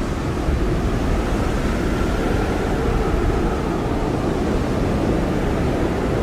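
Blizzard wind blowing hard and steadily: a dense rush with a deep low rumble and a faint whistling tone that slowly sinks and rises again.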